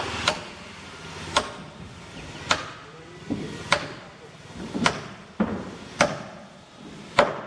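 Hammer blows on boat timber, seven evenly spaced strikes about one a second.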